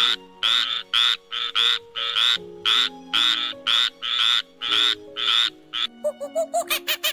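Frog croaking: a run of loud, short, rasping croaks, about two or three a second. Near the end they stop and a faster series of short, squeaky calls takes over. Soft background music plays underneath.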